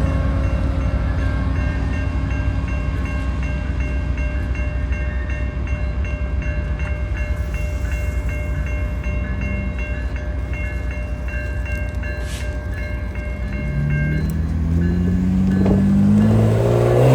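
Train rumbling past a level crossing while the crossing bell rings over and over. Near the end a road vehicle's engine revs up, rising in pitch, as it pulls away.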